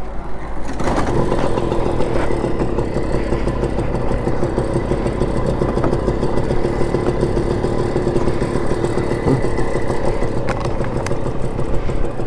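TVS 50 moped's small engine running steadily as it rides along, with wind and road rumble.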